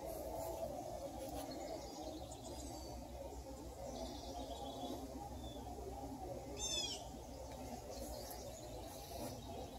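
Faint songbird chirps over a steady low background hum. One clearer call, a quick chirp sweeping downward, comes about seven seconds in.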